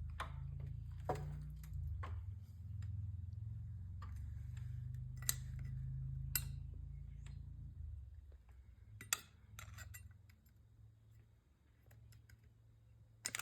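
A metal scraper scratching and clicking in short, scattered strokes against the Chevy 350 block's oil pan gasket flange, the old gasket still stuck fast. A low steady hum runs underneath and stops about eight seconds in.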